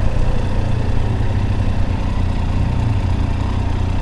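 Triumph Tiger 800 XRx's three-cylinder engine running steadily at low revs, a low hum.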